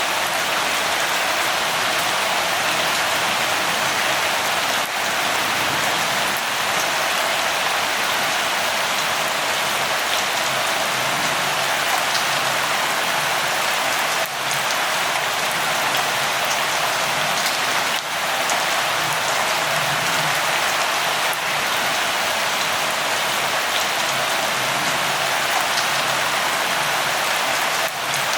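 Steady light rainfall, an even hiss with scattered drops pattering on a surface.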